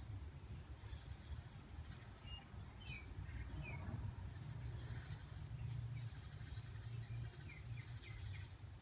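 Faint bird chirps: a few short, high calls about two to four seconds in and a few more near the end, over a low steady background rumble.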